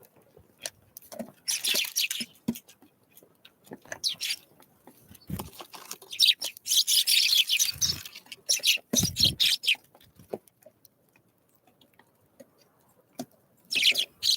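Small wild birds: several short bursts of high chirping and fluttering, with a few dull thumps between them and a quiet stretch near the end.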